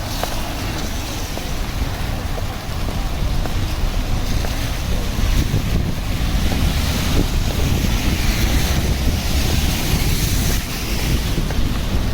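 Wind buffeting the microphone over a steady hiss of rain, a little louder from about four seconds in.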